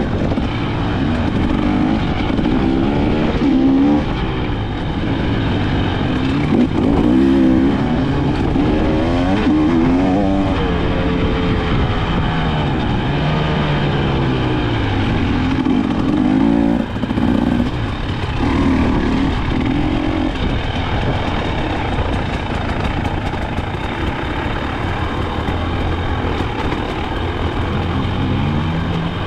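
KTM 300 XC-W single-cylinder two-stroke engine being ridden hard, its pitch climbing and dropping again and again as the throttle opens and shuts through the gears.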